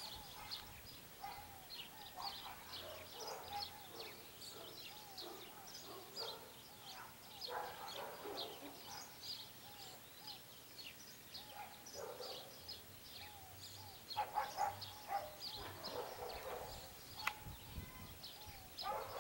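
Birds chirping: a steady stream of short, high chirps, with lower, wavering calls now and then and a louder stretch about two-thirds of the way through.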